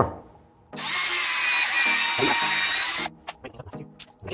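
Cordless drill boring into a golf ball. It starts about a second in and runs steadily with a high whine for about two seconds, then gives a few short bursts, and starts again near the end.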